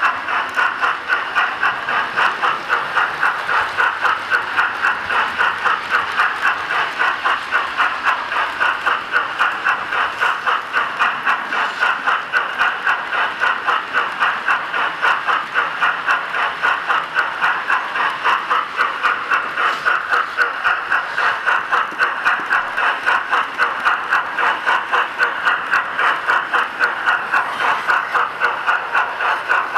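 Model steam locomotive's DCC sound decoder playing steam chuffs through its small onboard speaker, a steady even beat of about three chuffs a second, with a hiss. The locomotive is a model of the LNER A4 'Silver Fox' running at a constant speed.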